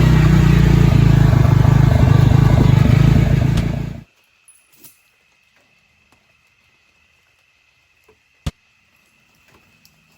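Vehicle engine running steadily, shut off about four seconds in; then a few faint clicks and one sharp click.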